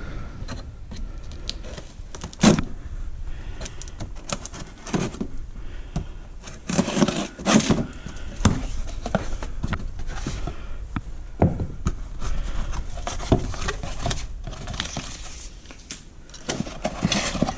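Scattered clicks, knocks and rattles of garbage disposal and drain parts being handled and worked on. There is one sharp knock about two and a half seconds in and a burst of louder clatter about seven seconds in.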